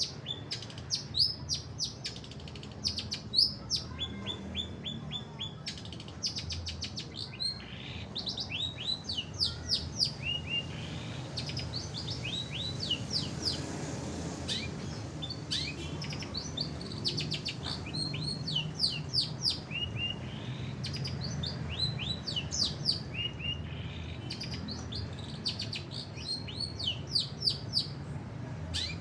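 Long-tailed shrike (cendet) singing: rapid runs of short, high, downward-sweeping chirps, repeated in bursts, over a faint low steady hum.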